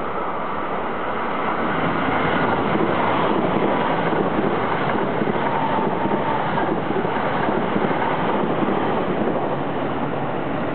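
EF66 electric locomotive hauling a freight train, approaching with a steady rolling rumble that grows a little louder about two seconds in, with wind noise on the microphone.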